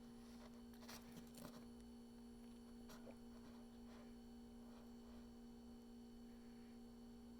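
Near silence: a steady low electrical hum, with a few faint light ticks about one and three seconds in.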